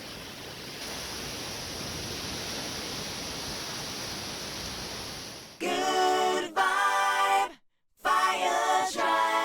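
Steady hiss of ocean surf rolling onto the beach. About five and a half seconds in, it gives way to louder music with held notes, in two phrases split by a brief silence.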